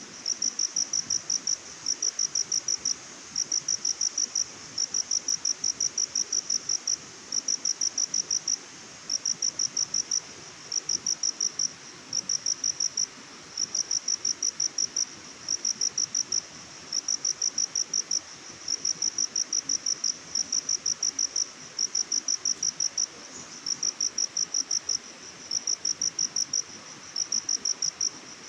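Cricket chirping in regular bursts, each a rapid train of high pulses, repeating about every second and a half over a faint steady background hiss.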